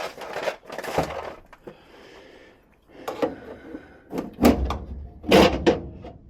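Sheet-metal parts and tools clattering and knocking as a gas furnace's burner compartment is opened up, with a few louder bangs in the second half.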